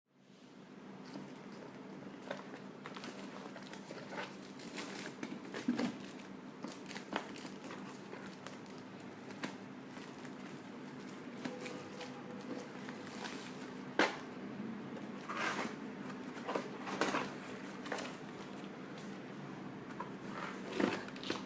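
Packaging being handled: crinkling and rustling with scattered sharp taps and clicks, over a low steady hum.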